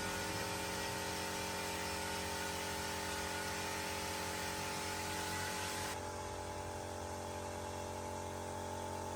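A steady machine hum with several held tones and a low drone, the high hiss dropping away about six seconds in.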